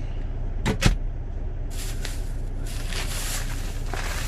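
Steady low rumble of the truck's idling engine, with two sharp knocks just under a second in, then crinkly handling noise of things being moved about.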